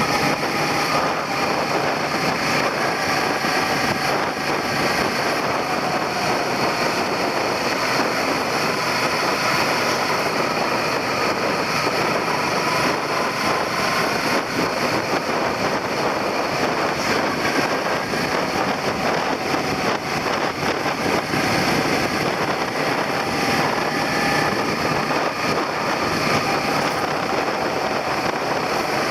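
Suzuki SV400 motorcycle's V-twin engine running steadily while riding, its note shifting a little with speed, under heavy wind and road noise on the handlebar-mounted microphone.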